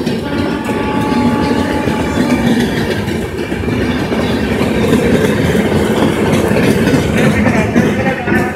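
Rajdhani Express LHB passenger coaches passing at speed, a loud, steady sound of wheels running on the rails.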